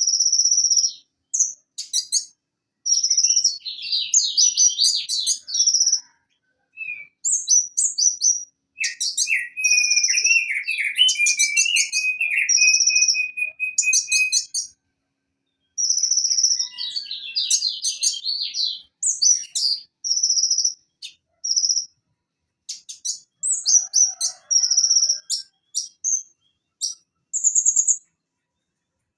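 Purple-throated sunbird (konin, Leptocoma sperata) singing in rapid phrases of high, sharp notes and quick trills, with short pauses between phrases. A lower chattering run comes about a third of the way in.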